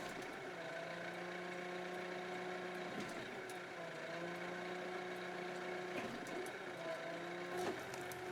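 Kioti RX7320 tractor's diesel engine running steadily under work, its pitch dipping briefly a few times.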